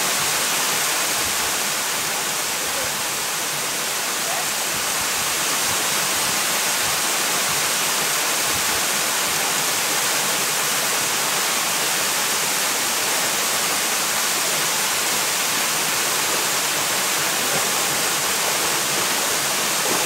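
Waterfall: water pouring and splashing into a pool, making a steady, unbroken rushing noise.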